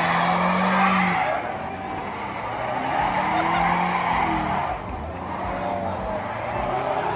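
Car doing a burnout: tyres screeching against the pavement over a revving engine. The engine's pitch rises and falls. It is loudest in the first second, eases, swells again around three seconds and dips briefly near five seconds.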